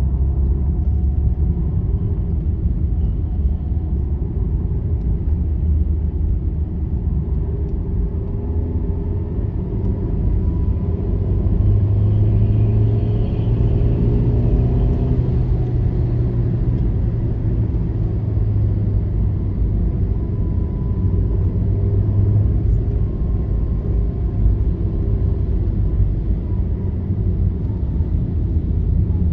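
Steady low rumble of a vehicle travelling along a highway: engine and road noise with a low hum that rises slightly in pitch for a stretch midway, then settles back.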